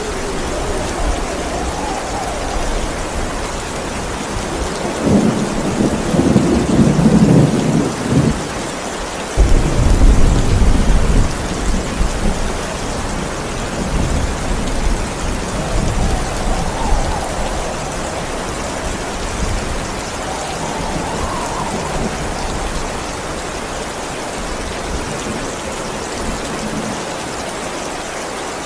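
Steady heavy rain with thunder. A long low rumble builds about five seconds in, and a louder clap and rumble follows about nine seconds in, then fainter rolling rumbles.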